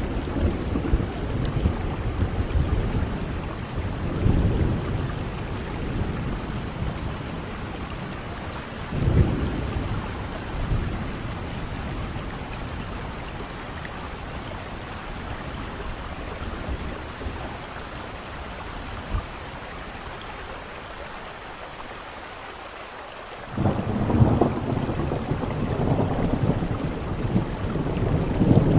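Steady heavy rain with thunder rumbling: low rumbles near the start and about 9 seconds in, a calmer stretch of rain alone, then thunder rolling in suddenly about 23 seconds in and growing louder near the end.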